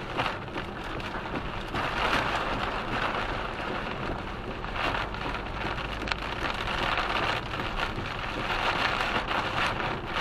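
Heavy rain beating on a vehicle driving on a motorway in a storm: a dense rushing noise that swells and eases every couple of seconds.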